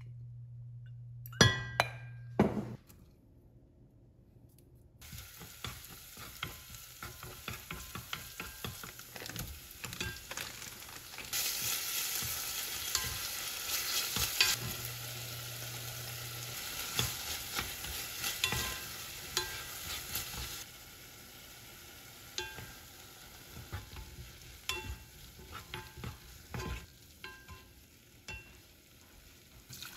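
Minced meat and chopped green onion sizzling in oil in an enameled cast-iron pot, with a wooden spoon scraping and tapping against the pot as it is stirred. There are a few sharp knocks about two seconds in. The sizzle swells loudest in the middle, then eases.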